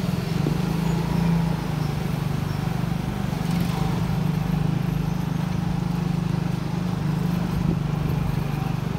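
Motorcycle engine running at a steady speed during a ride, with an even low hum and no revving up or down.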